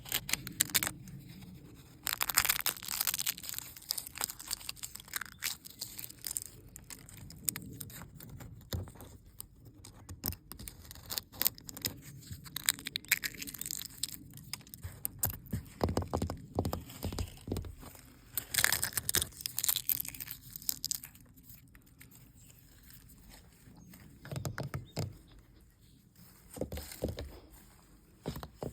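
Old paint being peeled and flaked off an old building, crackling and tearing in irregular bursts, with a quieter lull past the middle.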